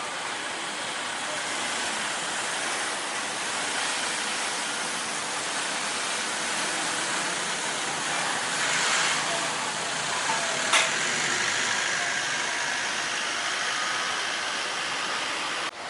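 Jet airliner engines on a landing approach, a steady broad roar that swells a little about halfway through, with one sharp click near the end.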